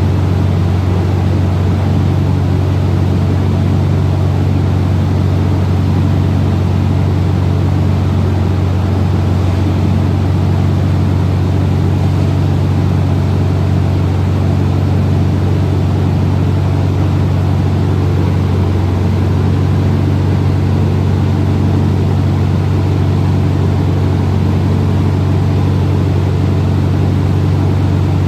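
Car engine running at a steady, unchanging speed: a loud, constant low drone with no revving.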